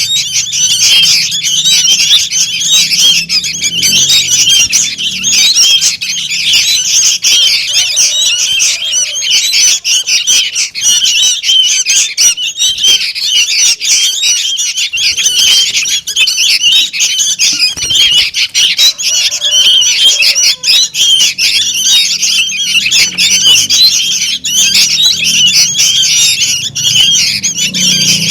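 Juvenile sooty-headed bulbuls (kutilang) calling noisily, a dense, continuous stream of overlapping high chirps. It is the chattering of young birds used as a lure call to draw in other bulbuls.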